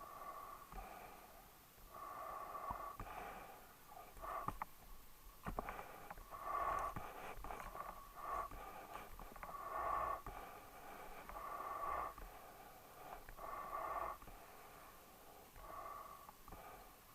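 Dog breathing noisily through its nose, a snorting breath about every two seconds, with a few sharp clicks around four to six seconds in.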